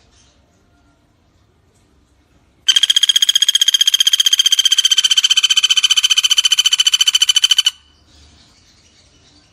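Pelatuk bawang woodpecker calling: one loud, high, rapid, even rattle lasting about five seconds, which starts and stops abruptly.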